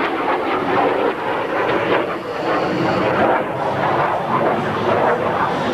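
F-5 Tiger III fighter jet flying a display routine: a steady, loud rush of twin turbojet engine noise.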